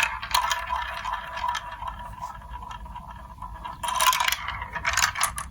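Marbles rolling and rattling along a plastic building-block marble run track, a steady rolling hum under dense clicking, with louder clatter about four seconds in and again about five seconds in.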